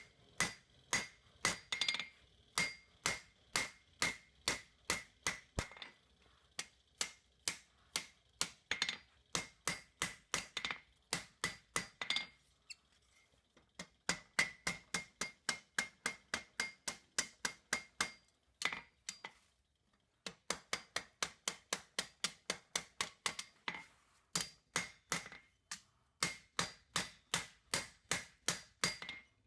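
Hand hammer striking hot square steel bar stock on an anvil, blows coming steadily at about two to three a second, each with a short metallic ring. The runs of blows break off for short pauses twice, between heats or repositionings.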